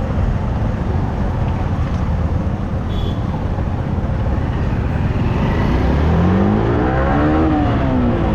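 A motorcycle in motion, with heavy wind and road rumble on the mic. A brief high beep comes about three seconds in. Near the end an engine note rises and then falls again.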